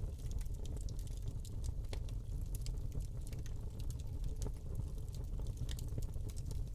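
Wood fire burning in a fireplace: a low steady rumble of the flames with irregular small crackles and pops from the burning log.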